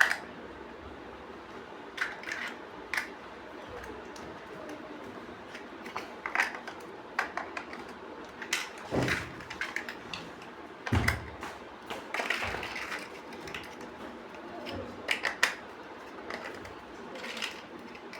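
Plastic building bricks clicking and snapping as they are handled and pressed together, in irregular sharp clicks with two heavier knocks about nine and eleven seconds in.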